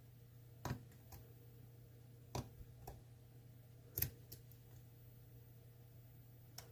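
Faint, sharp metallic clicks of a lock pick and tension wrench working the spool pins of an ASSA Twin Combi lock cylinder: about six irregularly spaced ticks, the loudest about four seconds in, over a steady low hum.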